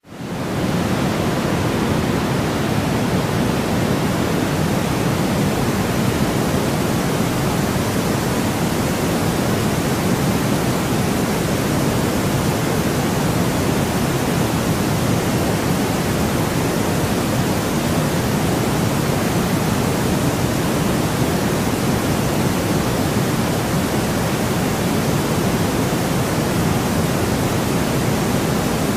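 Steady sleep-track white noise: an even, unchanging hiss with a deep rumble underneath, fading in over the first half second.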